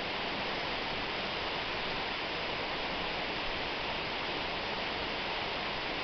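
Waterfall rushing in a steady, even roar of falling water, without a break or change.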